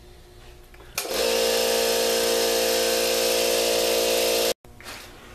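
Central Pneumatic 21-gallon cast iron air compressor running steadily as it fills its tank, a loud even hum with a hiss over it. It starts abruptly about a second in and cuts off suddenly a little before the end.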